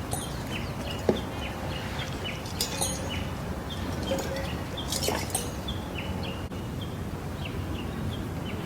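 Small birds chirping over and over, short downward-hooked calls a few times a second, over a steady low rumble. A couple of sharp knocks about a second in and about five seconds in.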